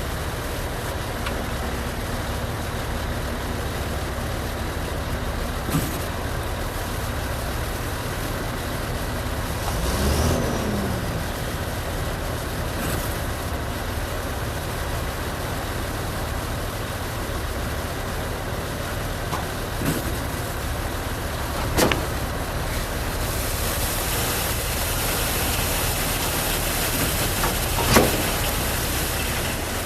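Concrete pump truck's engine running steadily, with a few sharp knocks and a hiss that builds in the second half.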